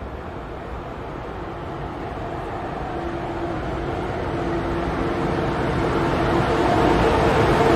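ICE high-speed train approaching along the platform: a steady rail rumble grows steadily louder, and a low steady hum joins it about three seconds in.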